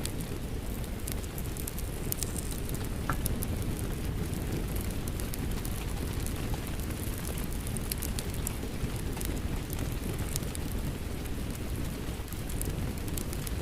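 Steady rain blended with a crackling wood fire: a constant low rushing noise with scattered sharp pops and crackles throughout.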